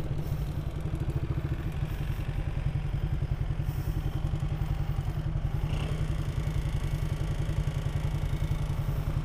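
Motor scooter engine idling at a standstill, a steady low throb with an even pulse.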